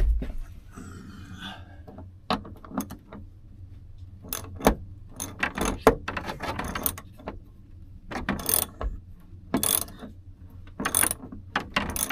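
Socket wrench ratchet clicking in several short runs of sharp clicks.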